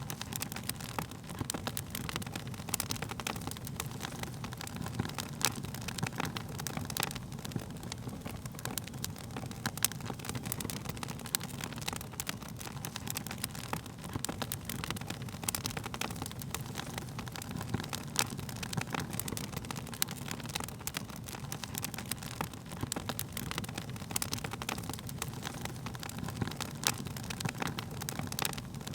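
Wood fire burning, with many sharp, irregular crackles and pops of burning wood over a steady low rumble of flames.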